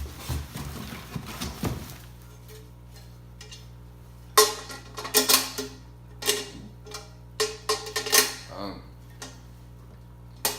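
Steel exhaust header tubes being handled, with rustling in the first couple of seconds, then a run of sharp metallic clanks with short ringing from about four seconds in.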